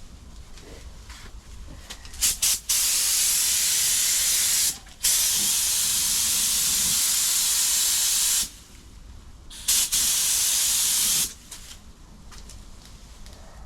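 Compressed-air paint spray gun laying on clear coat: a few short trigger blips about two seconds in, then long steady passes of hiss broken by brief pauses, stopping near the end.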